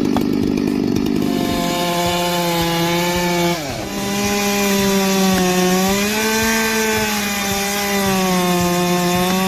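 Chainsaw running at high revs while cutting wood, its engine pitch dipping briefly about three and a half seconds in and then climbing back up.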